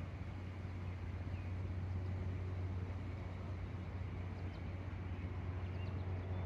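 Steady outdoor background hum, a low rumble like distant traffic, with a few faint short bird chirps.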